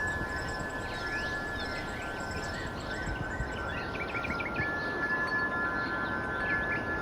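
Wind chimes ringing with long held tones, over a steady hiss, with many short high chirps scattered across them, as in a relaxation soundtrack.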